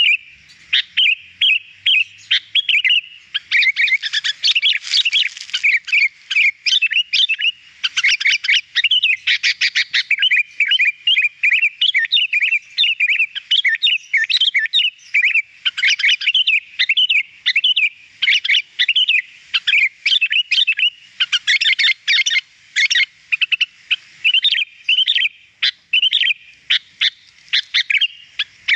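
Sooty-headed bulbul (kutilang) singing continuously in a fast, chattering run of short chirps and whistled notes, with only brief pauses.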